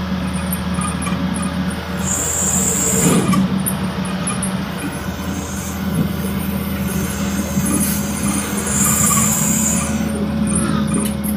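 Truck engine running steadily under road noise, with two brief high hisses, one about two seconds in and one near nine seconds.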